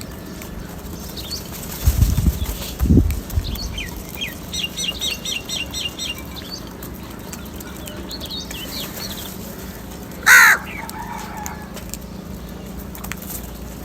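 Crows at a feeding spot: two low flutters of flapping wings about two and three seconds in, a quick run of high bird chirps, then one short, loud crow caw about ten seconds in.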